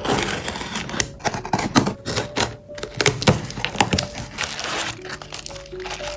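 Packaging of a delivery parcel being crinkled, crushed and torn open by hand, in a dense run of crackles and snaps.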